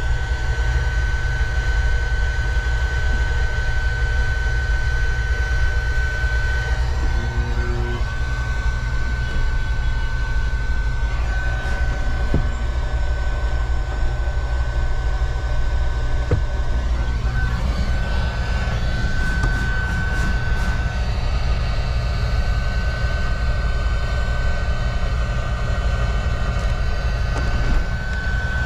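A 2016 Cadillac Escalade ESV's 6.2L V8 engine running steadily at idle, a deep steady rumble with a steady high whine over it.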